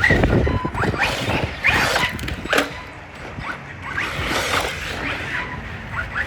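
Radio-controlled car's small electric motor whining up in short rising bursts as it is throttled on and off, over a rough rumble and knocks.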